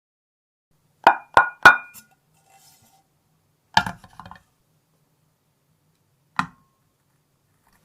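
Hard objects clinking: three quick sharp taps with a short ring, then a knock with a brief rattle and, a few seconds later, one more single knock.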